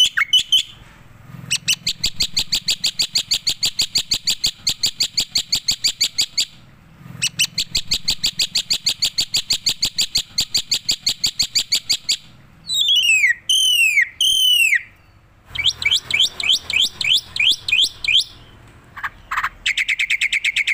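Black-winged myna (jalak putih) singing: long runs of fast repeated chattering notes, broken about halfway by a few loud swooping whistles, then quick rising notes and a trill near the end.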